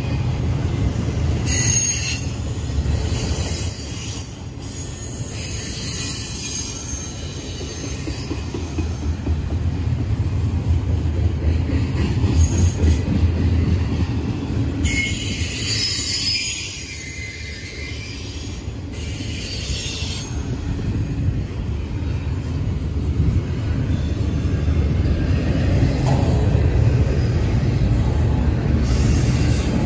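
Double-stack intermodal container well cars of a freight train rolling past at close range: a steady low rumble of steel wheels on the rails that swells and eases as the cars go by, with high wheel squeal coming in now and then.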